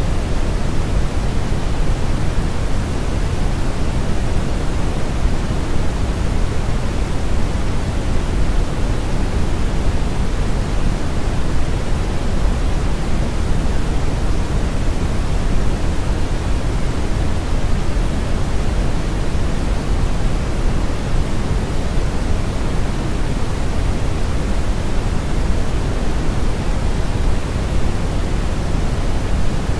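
Steady synthetic brown noise: an even, unchanging hiss weighted heavily to the low end, with the treble rolled off, like a deep rushing.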